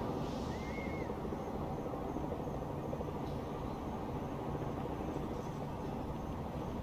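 Steady low rumble of distant town traffic, with a quick run of three small chirps about half a second in and faint high insect calls further on.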